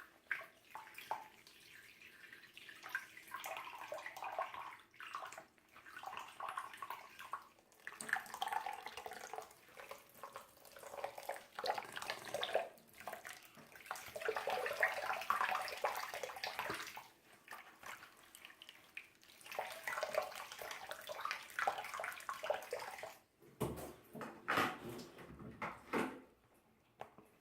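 A baby doll's hair being washed by hand in water: irregular splashing and squishing that comes in surges, with short pauses between them.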